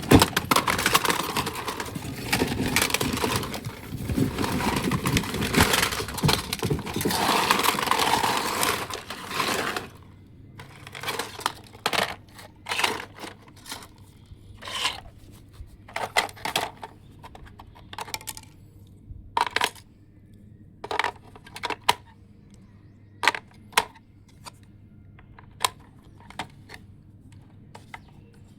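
Dense clattering and rattling of hard objects being handled for about ten seconds, then separate short clicks and clinks, a second or more apart.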